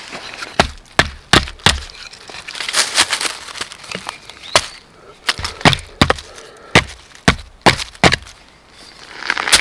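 Firewood being chopped and split: a dozen or so sharp, irregularly spaced knocks and cracks of wood, with splintering between them.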